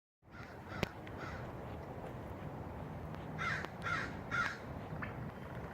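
A bird giving harsh, crow-like calls: two faint ones near the start, then three louder ones in quick succession about half a second apart, past the middle. A single sharp click comes about a second in.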